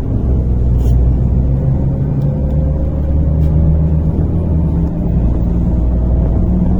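MAZ-103 city bus heard from inside the cabin while driving: a steady low rumble from the diesel engine and drivetrain, with a faint whine that rises slowly in pitch. The low rumble dips briefly about five seconds in.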